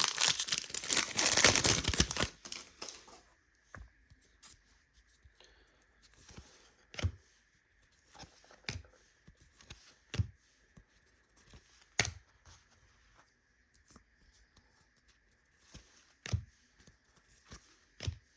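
A trading-card pack's foil wrapper being torn open and crinkled for the first two seconds or so. After that come soft single taps every second or two as cards are handled and laid down on a table.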